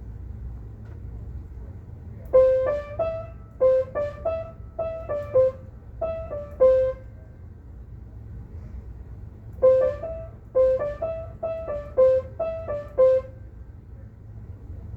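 A short melody of single struck notes on a piano-like keyboard instrument, played as one phrase and then repeated a few seconds later, over a steady low hum.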